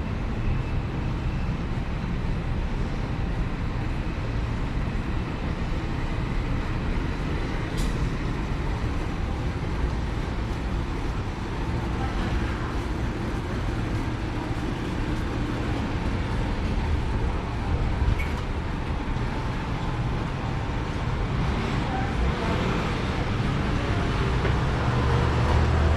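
City street traffic: a steady low rumble of passing vehicles, swelling a little near the end, with a couple of brief sharp clicks.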